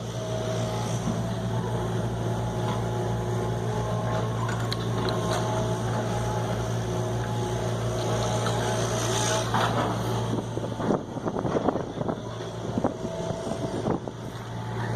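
A motor or engine hums steadily at a low pitch. In the second half there are scattered knocks and handling noises.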